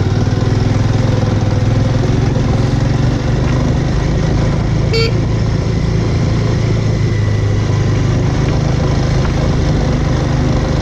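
Bajaj Avenger's single-cylinder engine running steadily under way, heard from the rider's position. A short horn toot about five seconds in.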